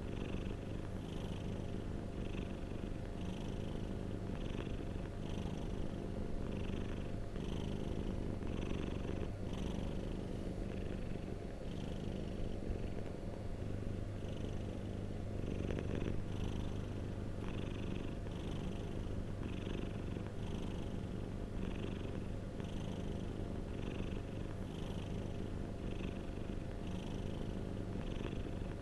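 Domestic cat purring steadily, a low continuous rumble that swells and eases with each breath, about once a second.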